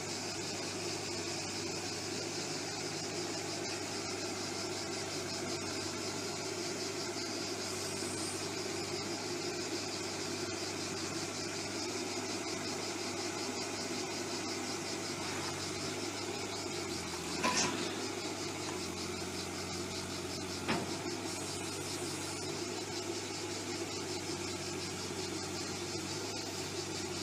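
A motor vehicle engine running steadily at a constant pitch, with a steady high-pitched buzz over it. Two short sharp knocks come about 17 and 21 seconds in.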